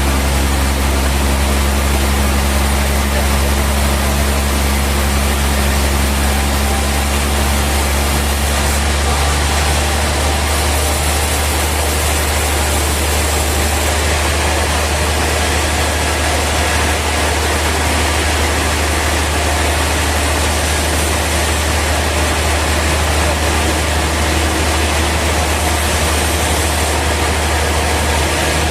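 Sawmill machinery running steadily: a loud low hum under an even rushing noise, with some lower tones dropping away about ten seconds in.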